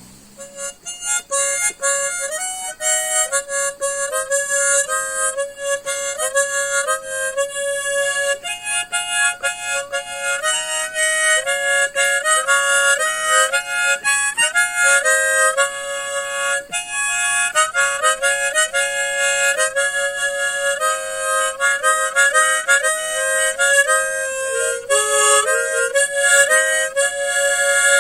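Harmonica playing a slow melody, one note at a time, with held notes.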